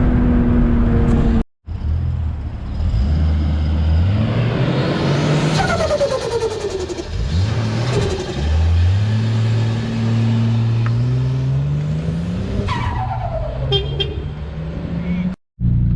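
Turbocharged straight-six of a built RB25DET R33 Skyline accelerating hard, its engine note climbing and dropping back with each gear change. Twice a turbo whistle falls away when the throttle lifts, and the first time it comes with a rapid fluttering chatter: compressor flutter, since no blow-off valve is fitted.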